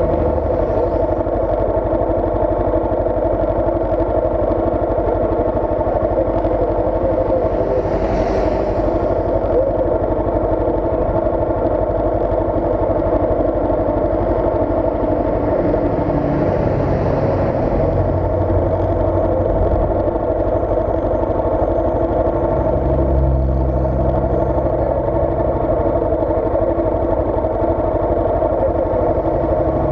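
Motorcycle engine idling steadily while stopped. Other vehicles drive past close by, with a heavier engine rumble a little past halfway and again later on.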